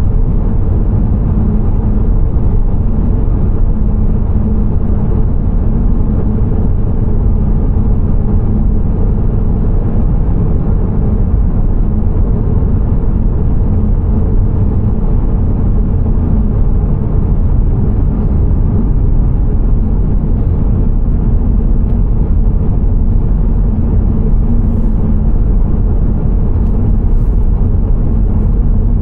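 Steady low rumble of a car driving along the road, engine and tyre noise without a break.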